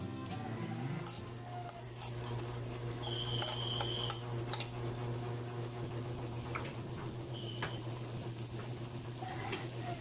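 Carrots sizzling softly in an aluminium wok, with a spoon scraping and stirring at the start, over a steady low hum. A few short high tones and light clicks come and go.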